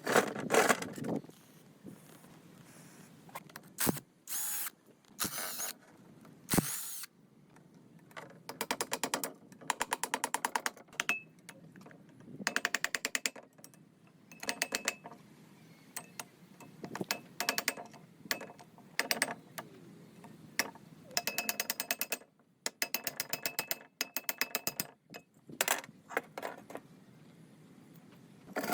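Hand tool clicking in quick, even runs, in the manner of a ratchet wrench being worked, between separate knocks of metal parts being handled.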